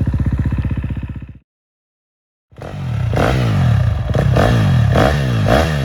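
Dirt bike engine idling with a rapid, even beat, dropping into dead silence about a second and a half in. After a second of silence, a dirt bike engine is blipped and revved up and down again and again.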